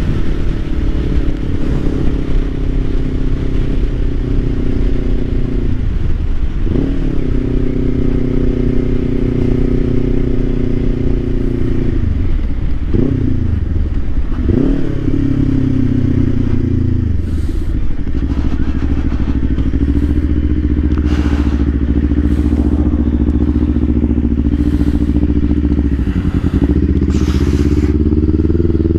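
Kawasaki Ninja 500's parallel-twin engine running under way, with brief dips and climbs in engine pitch about a third of the way in and twice near the middle, then holding a steady pitch before rising again at the end.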